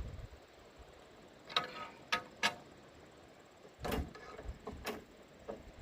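A few short, sharp knocks and clicks, about five of them spread out, with the tractor engine not running.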